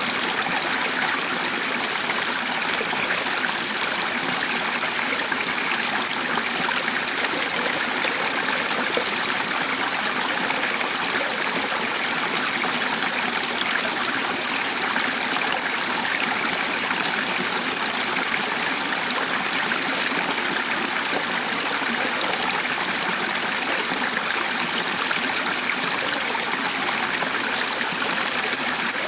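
Water in a stream flowing steadily, an even, unbroken rush and trickle.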